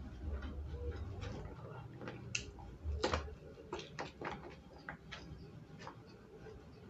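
Close-up eating sounds: irregular crunches and wet mouth smacks of someone chewing raw lalapan vegetables, the loudest cluster about three seconds in.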